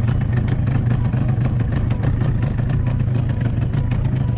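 A boat's engine running steadily, a constant low drone.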